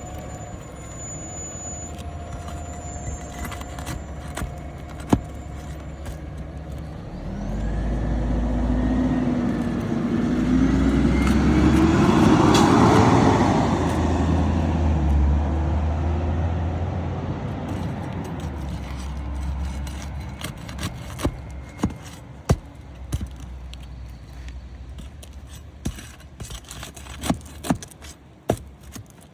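A road vehicle passing by: its engine and tyres grow louder to a peak about halfway through, the engine pitch rising and then falling, before it fades away. Sharp clicks and knocks come in the last few seconds.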